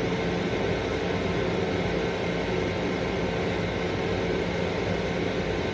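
Steady hum and hiss of a Long Island Rail Road M7 electric railcar, heard from inside its restroom, with a faint low hum running under it.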